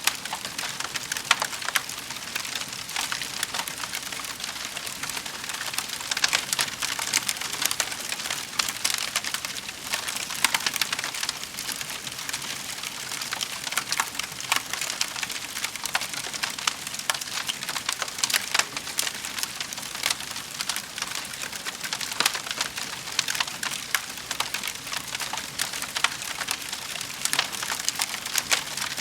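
Fire in a fireplace crackling, with many small, irregular snaps and pops over a steady hiss.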